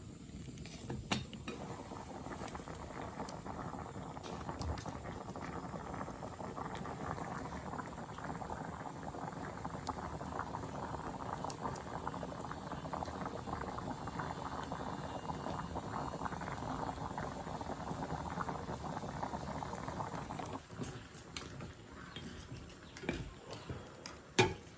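Steady bubbling and crackling of liquid boiling, which stops suddenly about twenty seconds in. A few knocks follow, with one sharp click near the end.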